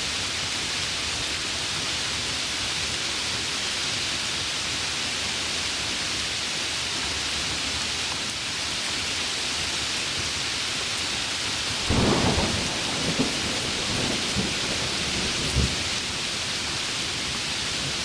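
Heavy rain falling steadily, with a clap of thunder about two-thirds of the way through that rolls on in a few lower rumbles for several seconds.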